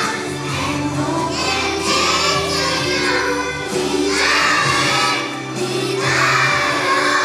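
A group of young children singing a song together over accompanying music with a steady bass line.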